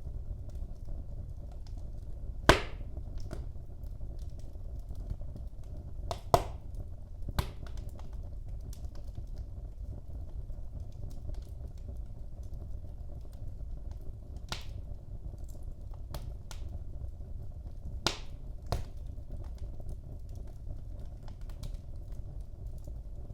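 Wood fire burning in a fireplace: a steady low rumble of the flames with sharp crackles and pops, about five louder ones among many faint ticks.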